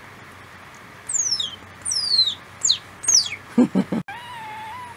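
A bird chirping: a series of high, quickly falling chirps. They are followed by a few brief low knocks, and after an abrupt cut comes a steady held tone.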